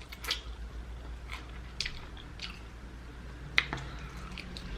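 Close-miked mouth sounds of someone eating sauced chicken wings: wet chewing and biting with irregular smacks and clicks, the sharpest about three and a half seconds in.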